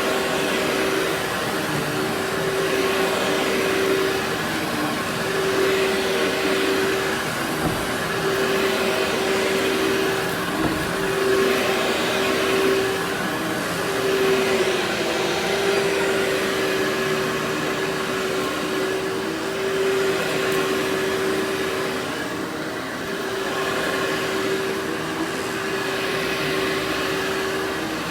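Vacuum cleaner running with a steady motor whine, its rushing air noise swelling and easing every couple of seconds.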